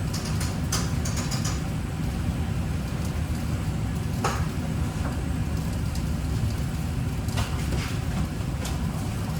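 A steady low mechanical rumble, with a few short light clicks and clatters scattered over it.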